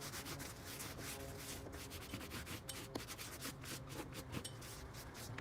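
An alcohol wipe rubbed back and forth over a rubber trim piece in quick, irregular scrubbing strokes, cleaning off leftover 3M tape residue so new tape will stick.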